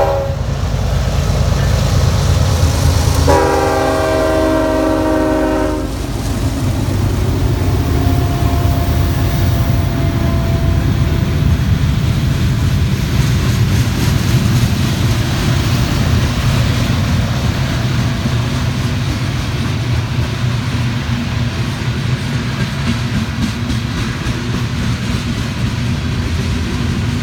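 Union Pacific diesel locomotives hauling a container train uphill, engines rumbling steadily with wheels running on the rails. A short horn note sounds right at the start, then the multi-note train horn blows one chord for about two and a half seconds a few seconds in.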